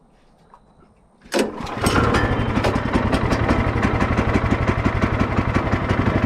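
Sawmill's engine starting from cold: quiet at first, a brief crank about a second and a half in, then it catches and settles into a steady, evenly pulsing idle to warm up.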